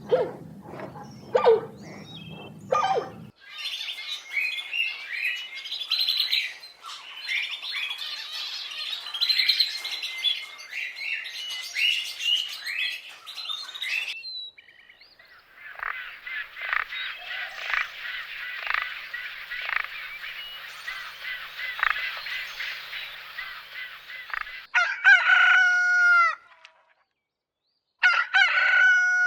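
A run of separate animal sound clips: a dog's short yelps in the first three seconds, then a chorus of small birds chirping, then a second stretch of rapid chirping, and near the end a rooster crowing twice, the crows separated by a short silence.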